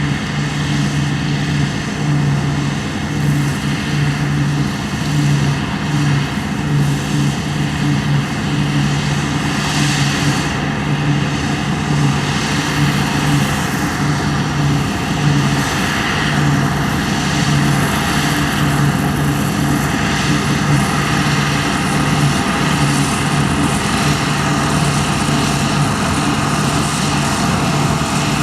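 Deutz-Fahr Topliner 4090 HTS combine harvester running steadily at work harvesting barley, a constant low engine drone with mechanical noise over it.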